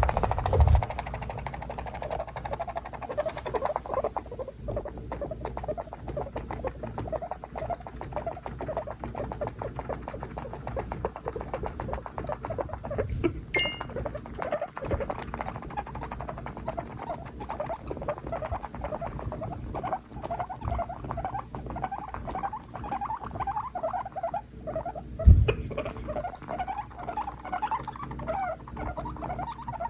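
Two guinea pigs vocalizing aggressively at each other in a long run of short, rapid calls, several a second. A single loud low thump comes about twenty-five seconds in.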